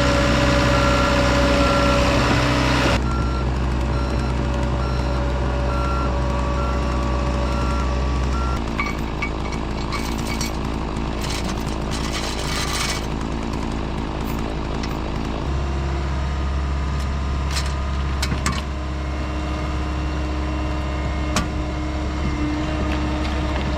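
Diesel engine of tracked heavy equipment running under changing load, its note shifting several times, with a backup alarm beeping during roughly the first several seconds.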